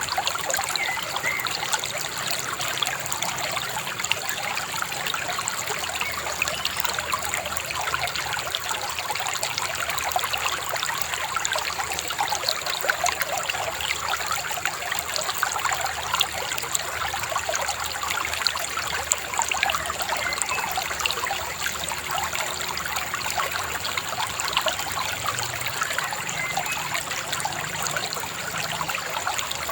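Shallow river babbling and trickling steadily over stones.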